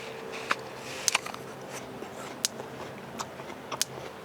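A person biting and chewing a crisp Haralson apple: a series of short, sharp crunches at irregular intervals, over a faint steady hum.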